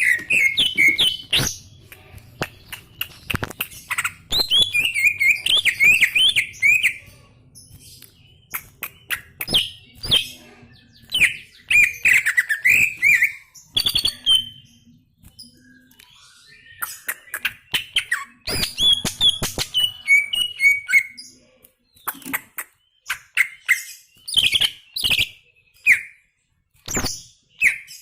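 Green leafbird (cucak ijo) singing in full voice: bouts of rapid, warbling, twittering phrases a few seconds long, with short pauses between them and sharp clicks scattered among the notes.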